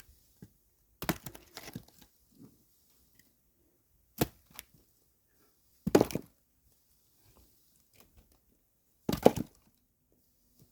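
Axe splitting firewood logs: four sharp strikes a few seconds apart, with the wood cracking and split pieces clattering after some of them.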